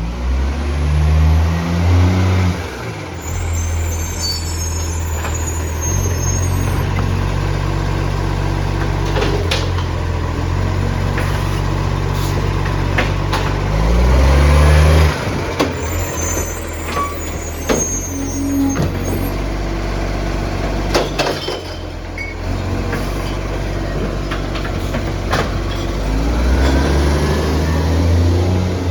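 Side-loader garbage truck's diesel engine running and revving up several times as it works its bin lift, with knocks and clatter from the bins being tipped.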